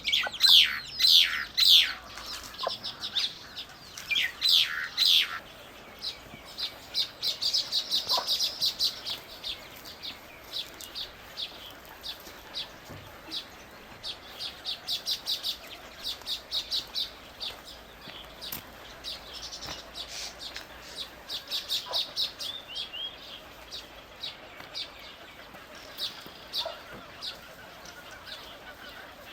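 Small birds chirping: a long run of short, high chirps, with several loud falling calls in the first five seconds.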